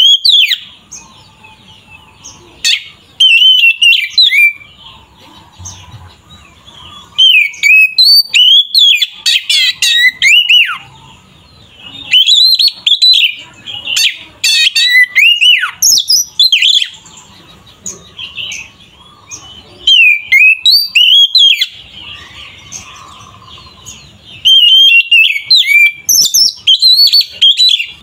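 Oriental magpie-robin (kacer) singing vigorously: loud bouts of rapid, sliding whistled notes, a few seconds at a time, broken by short pauses.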